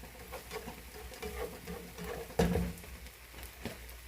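Egg omelet frying in an oiled pan just after being flipped: a faint sizzle with scattered small crackles and pops. A brief louder sound comes a little past halfway.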